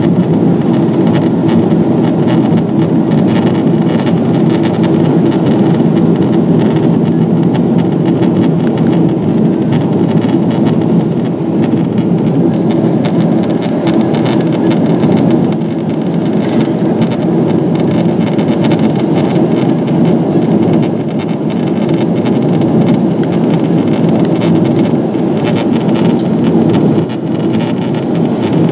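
Steady cabin roar inside a Boeing 777-200ER in descent: engine and airflow noise with a low steady hum running under it.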